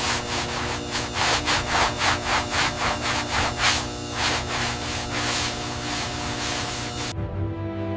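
Rhythmic back-and-forth rubbing strokes, like sanding or hand polishing, about three strokes a second, over background music. The rubbing stops abruptly about seven seconds in, leaving only the music.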